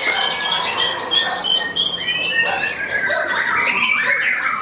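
White-rumped shama (murai batu) singing: a fast run of short repeated whistled notes, about six a second, then longer sliding whistles and a burst of varied, chattering phrases near the end.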